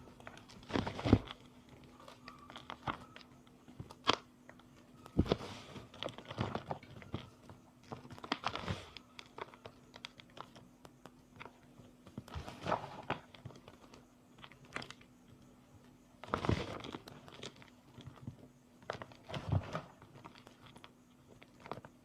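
Reformed gym chalk, coloured with food colouring, being crunched and crumbled in a series of irregular crisp crunches, several seconds apart.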